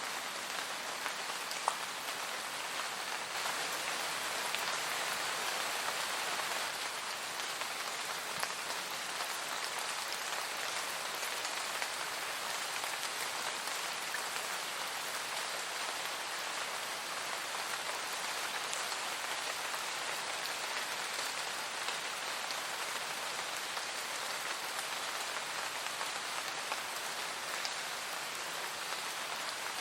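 Steady rain falling on a surface, an even hiss with occasional distinct drop ticks.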